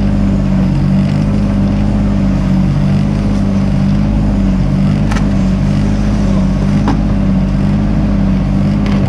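Mini excavator's diesel engine running steadily at working speed, with two brief clicks or knocks partway through.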